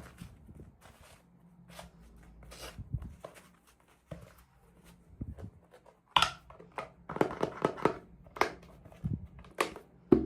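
Hands handling toy packaging and small plastic doll pieces: scattered clicks, taps and rustles, coming thicker and busier in the second half.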